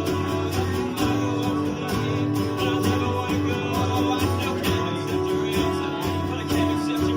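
Acoustic guitar playing a song, with notes sounding continuously and evenly.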